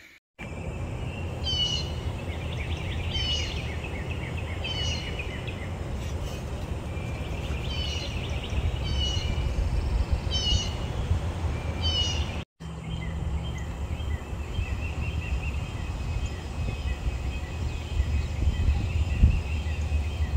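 A bird repeating a short falling call about every second and a half, with fainter bird notes between, over a steady low rumble of outdoor noise. The calls stop after a sudden break about twelve seconds in, leaving only the rumble.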